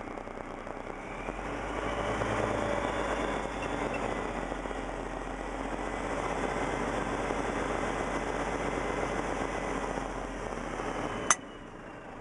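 Dump truck engine revved up and held steady, driving the hydraulic hoist as the tipper box is raised the rest of the way. About ten seconds in there is a single sharp click and the engine drops back.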